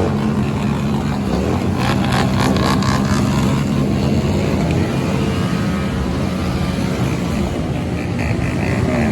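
Motorcycle engines running steadily, with a few sharp knocks or pops about two to three seconds in.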